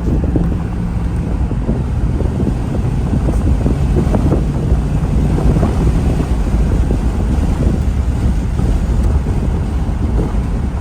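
Steady low rumble of a 1986 Corvette at highway speed, heard from inside the car: tyre, wind and V8 engine noise, with a faint engine hum that fades about halfway through.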